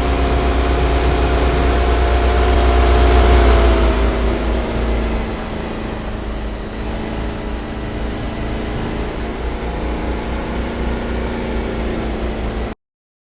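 Ice cream step van's engine running as the van drives off, growing louder over the first few seconds and then quieter as it moves away, with a deep rumble under it. The sound cuts off suddenly near the end.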